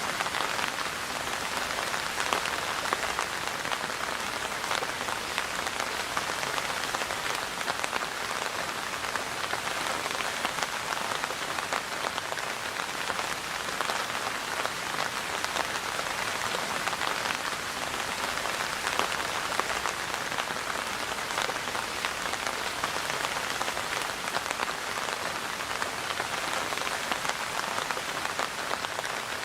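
Steady rain falling on a surface, a constant hiss of many fine drops with small individual patters throughout.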